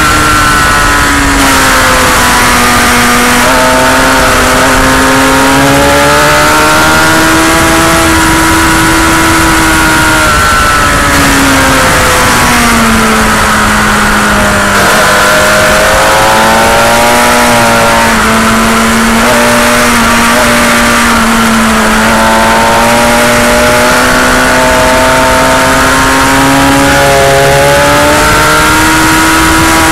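Sport motorcycle engine at track speed, heard from on board: its pitch climbs and falls as it accelerates, shifts and brakes through corners, with several sudden drops in pitch. Heavy wind rush runs under the engine throughout.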